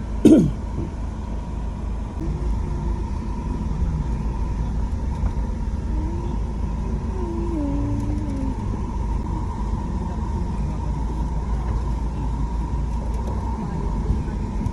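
Steady low rumble of a vehicle on the move, with one short, sharp sound falling in pitch about a third of a second in.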